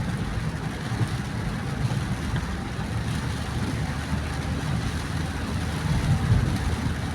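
Car driving on a rain-soaked highway: a steady low rumble of engine and road noise with a hiss of tyres on wet pavement.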